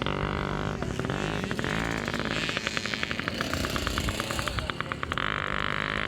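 Yamaha PW50's small two-stroke single-cylinder engine running under a riding child, its pitch rising and falling as the throttle is worked.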